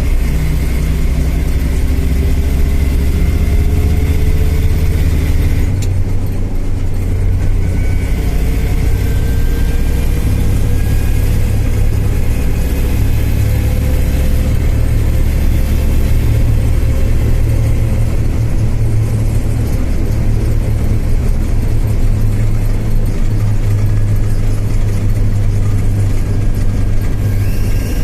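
IFA L60 truck's diesel engine and drivetrain running under way, the pitch climbing slowly as it pulls through a gear. The sound thins briefly about six seconds in.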